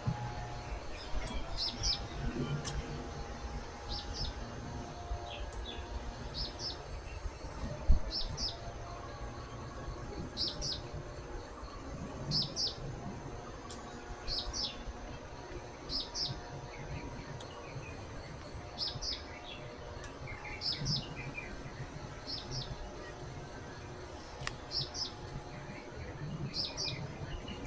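A small bird calling over and over with short, high chirps, usually in quick pairs, every second or two. A single sharp knock comes about eight seconds in.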